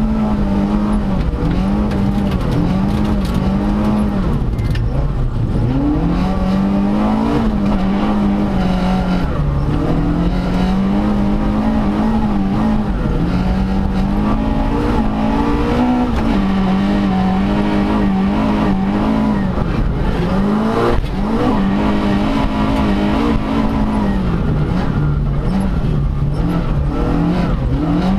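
Opel Kadett GSI rally car's engine heard from inside the cabin at full effort on a snow stage, the revs climbing and dropping over and over through gear changes and lifts.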